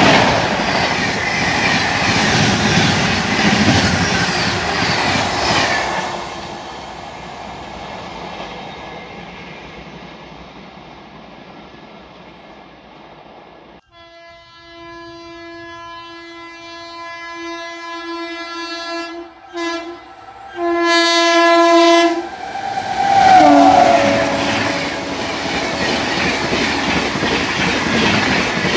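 An Indian Railways express train rushes past on the rails and fades away. Then another approaching locomotive sounds its horn, getting louder: a couple of short blasts and then a long one. The horn drops in pitch as it passes, and the train goes by with loud wheel and rail noise.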